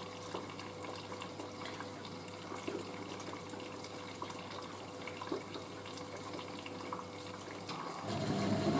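Hoover A3060 Electronic 1100 washing machine topping up with water during the heating stage of a boil wash: water running steadily into the machine, with a steady hum and a few faint clicks. About eight seconds in, a louder, lower sound sets in.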